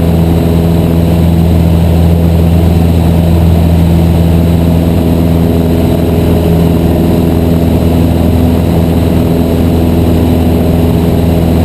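Cessna 152's four-cylinder Lycoming piston engine and propeller running at a steady power setting, a constant drone with no change in pitch.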